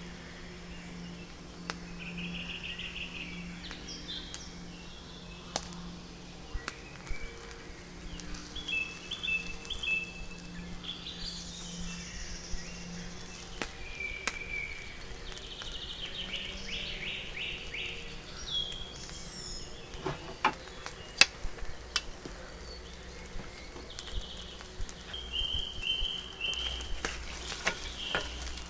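Songbirds singing outdoors in short repeated phrases, over a steady low hum in the first half. A few sharp clicks come about twenty seconds in and again near the end.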